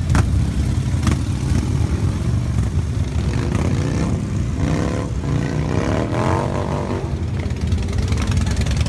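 Motorcycle engines running with a steady low rumble. A pitched engine note rises and falls about halfway through, and there are two sharp clicks near the start.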